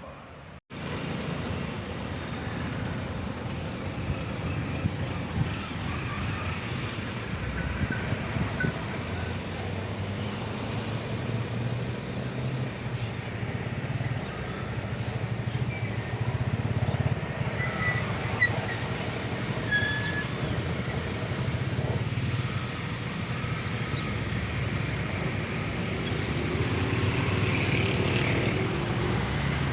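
Motor vehicle engine running steadily with road noise, its low hum rising and falling in pitch, and a few brief high squeaks about two-thirds of the way through.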